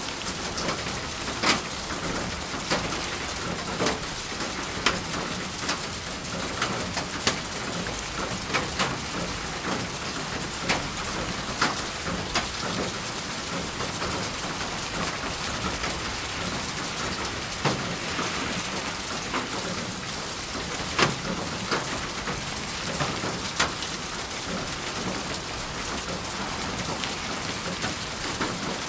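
Steady rain: an even hiss of rainfall with many sharp, irregularly spaced drop hits on a surface.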